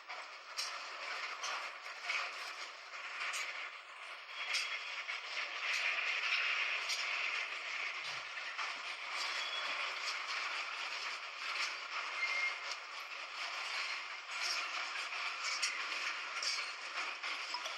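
A moving train: a steady rattling noise with irregular clicks and creaks.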